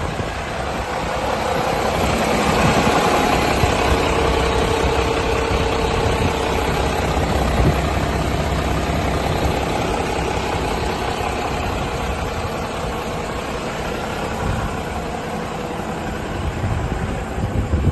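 Diesel engine on a refrigerated wing-body truck idling steadily.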